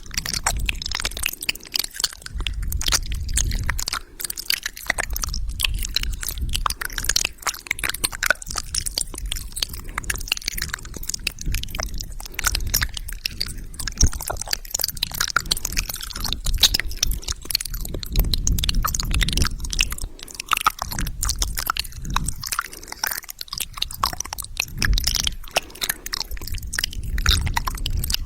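Close-up wet mouth sounds: rapid, continuous lip smacks, tongue clicks and saliva pops.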